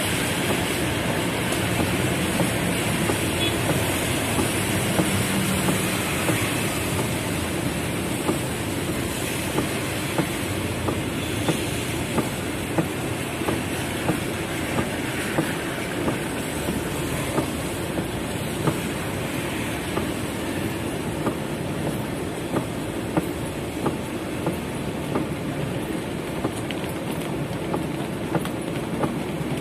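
Heavy rain drumming on a car's roof and glass, heard from inside the cabin as a steady dense hiss. Sharp taps recur at a regular pace of about one a second.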